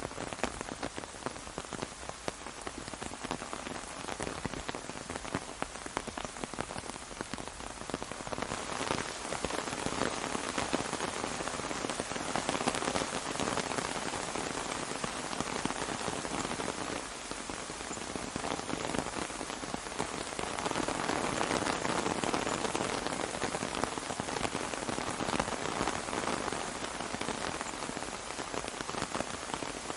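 Rain falling on an umbrella, a dense, continuous patter of drops that swells louder twice, about midway and again about two-thirds of the way through.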